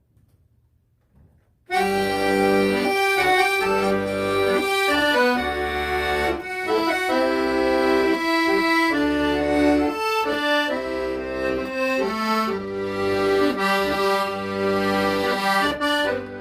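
An accordion starts playing about a second and a half in, after a brief silence: a slow melody over sustained chords and bass notes.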